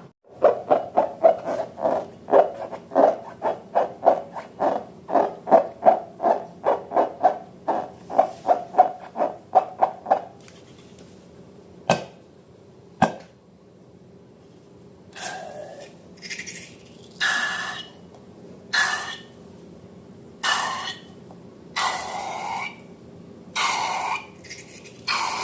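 Hands working balloons and slime: a quick run of rhythmic rubbing strokes, about three a second, then two sharp clicks about a second apart, then a slower series of longer, squeaky rubs.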